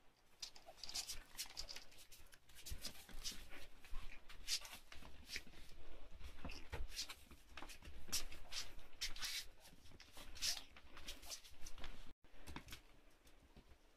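Shih Tzu puppy scrabbling about, making many short, irregular clicks and scrapes.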